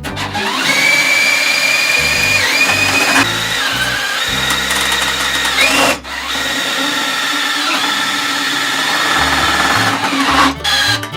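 Handheld power tool's electric motor running with a steady high whine, its pitch dipping briefly three times and cutting out for a moment midway.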